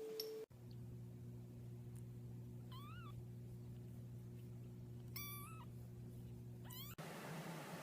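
A domestic cat meowing three times, short calls about three, five and nearly seven seconds in, over a steady low hum.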